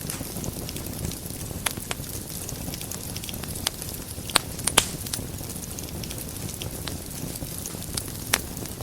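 Wood fire burning in a fireplace: a steady low rumble of flames with scattered sharp crackles and pops, a few louder snaps about halfway through and near the end.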